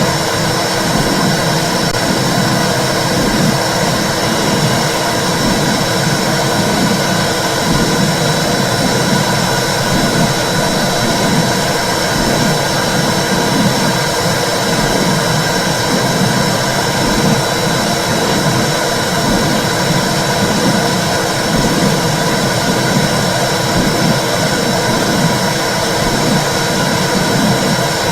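Womb sound for soothing babies: a loud, steady whooshing noise with an irregular low throbbing pulse running through it, and a thin steady high tone.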